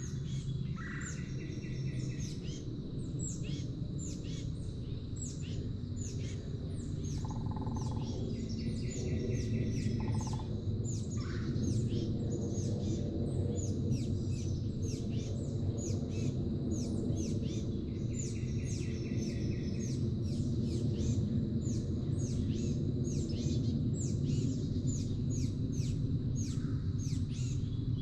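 Wild birds calling: a dense run of short, high, downward-sliding chirps, with a buzzy trill a few times that lasts about a second and a half. A steady low rumble runs underneath.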